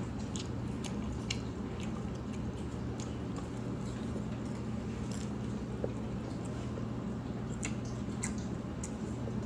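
Close-up eating sounds of someone chewing noodles, with scattered wet mouth clicks and smacks, over a steady low hum.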